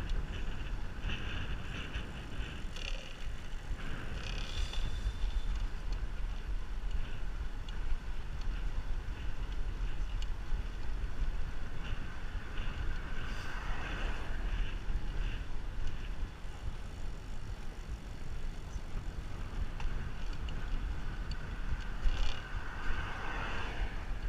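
Wind rushing over the microphone of a moving bicycle, a steady low rumble with louder gusts about fourteen and twenty-two seconds in.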